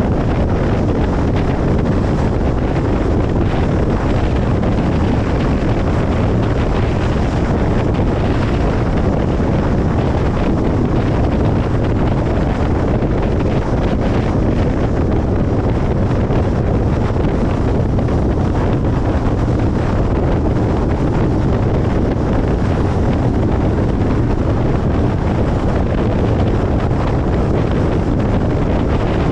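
Steady road noise of a car driving: an unchanging low rumble of tyres and engine with wind hiss, used as white noise.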